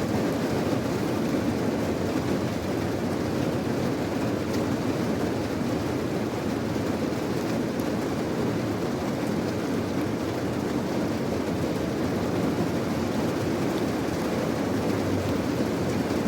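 Steady, even rain noise with a deep tone and a few faint, scattered ticks of drops.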